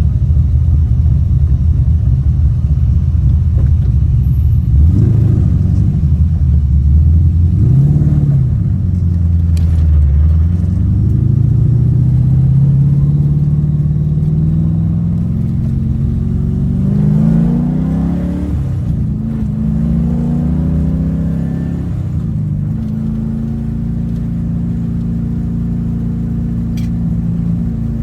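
LS V8 engine, a 7.0-litre 427 with individual throttle bodies, running. It rises in pitch briefly twice, then makes a long, slow climb and another quick rise, and settles to a steady, even note over the last several seconds.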